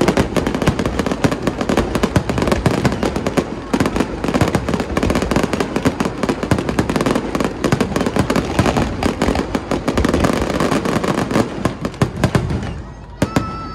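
Aerial fireworks display: a dense, continuous barrage of bangs and crackling that thins out about a second before the end to a few last separate bangs.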